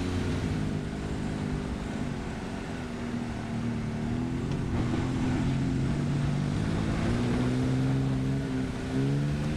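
Ford Bronco's engine running at low, changing revs as the truck crawls over dirt, its pitch dropping and rising a few times, under a steady hiss of tyre and road noise.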